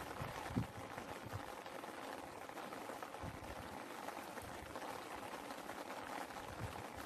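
Steady rain falling, with single drops landing close by as short, soft low knocks scattered through it; one louder drop about half a second in.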